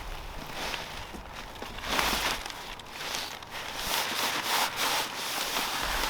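A photography hide being handled and set up: irregular rustling and rubbing, louder from about two seconds in.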